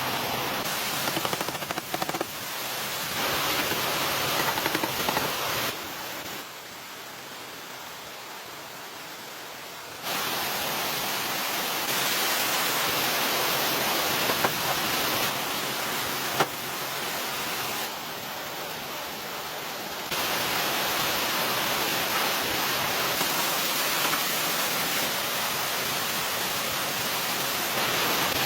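Steady rushing noise that steps abruptly louder or quieter every few seconds, with a few faint knocks.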